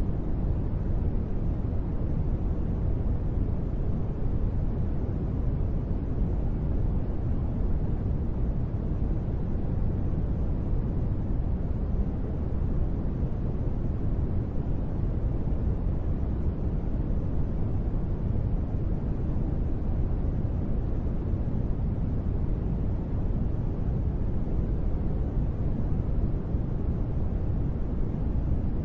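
Steady, deep rushing noise, heaviest in the low end and dull in the highs, with no single drops or changes: a continuous sleep-noise track presented as gentle rain white noise.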